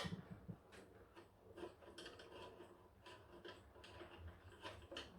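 Faint, irregular small metallic clicks and scrapes as the screws holding a French slate clock's movement are undone.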